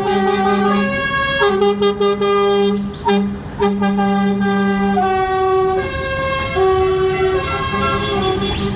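Lorry air horns sounding a run of long toots, several notes at once, shifting pitch every second or so, with a short break about three seconds in.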